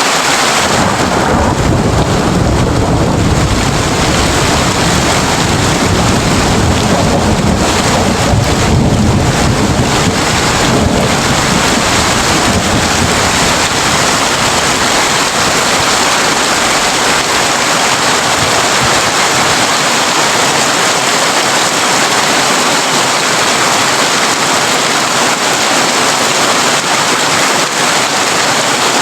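Heavy rain drumming steadily on a tin roof, with a long low roll of thunder through the first ten seconds or so that fades away, leaving the rain alone.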